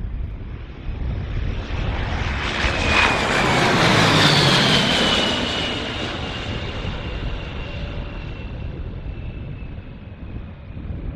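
C-17 Globemaster III's four turbofan engines as the transport flies low past: a rushing roar that builds to its loudest about four seconds in, then slowly fades, with a high whine that slides down in pitch as it goes by.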